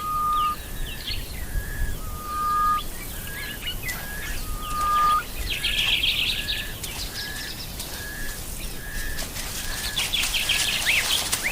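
Wild birds calling: repeated level whistles for the first five seconds or so, a steady run of short, evenly spaced notes, and scattered chirps over them.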